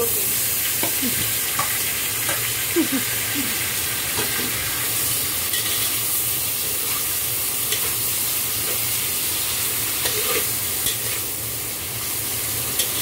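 Sliced onions, tomato and chilies dropping into hot oil in a metal wok and sizzling, the sizzle jumping up as they go in and then holding steady. A metal spatula stirs them, clicking and scraping against the wok.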